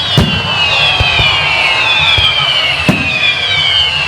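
Aerial fireworks going off: sharp bangs, the loudest about a quarter-second in and near three seconds in, with smaller pops between. Under them run several overlapping high whistles that fall slowly in pitch.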